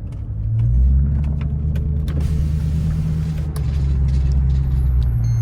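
Straight-piped Hemi V8 exhaust on a Chrysler 300 under acceleration. It swells about half a second in, then holds a steady deep drone.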